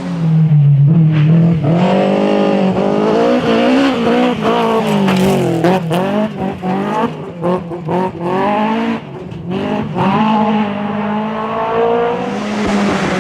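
Historic rally car engine revving hard, its pitch climbing and dropping again and again through gear changes and throttle lifts, with a cluster of sharp cracks in the middle.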